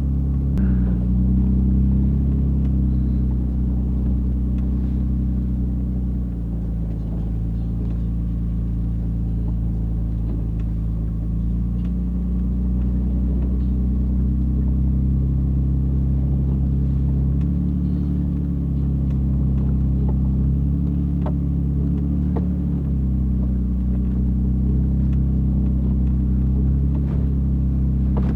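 Truck engine running steadily at low revs as the truck drives off, with its pitch shifting a little now and then.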